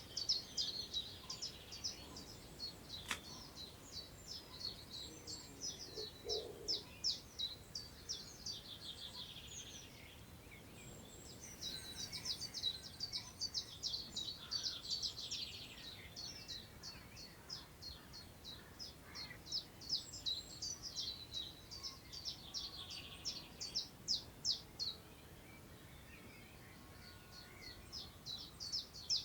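Songbirds singing in long, fast runs of short high notes, with brief pauses about ten seconds in and again near the end. A faint hiss of wind through long grass lies beneath.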